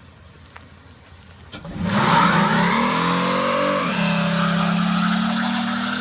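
Car engine revving: it starts hard about two seconds in, climbs in pitch for about two seconds, drops sharply, then holds at a steady higher speed.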